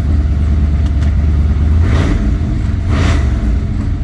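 1968 Ford Fairlane's twin-turbo 289 small-block V8 with Holley Super Sniper fuel injection running steadily on a cold start after sitting since September, with two short rushes of noise about two and three seconds in.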